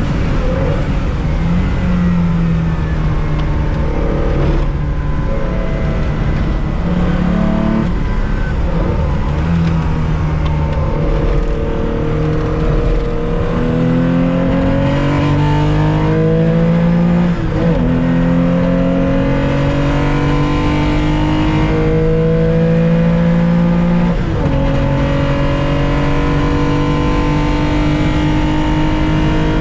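1965 Porsche 911 2.0's air-cooled flat-six heard from the cockpit under racing load. Its pitch climbs steadily through the revs and drops sharply twice, in the second half, as it is shifted up a gear each time.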